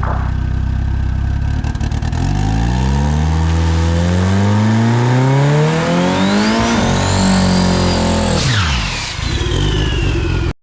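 Turbocharged drag car at full throttle: the engine's pitch climbs steadily for about seven seconds, with a high turbo whine rising above it. Both then fall away sharply about eight and a half seconds in.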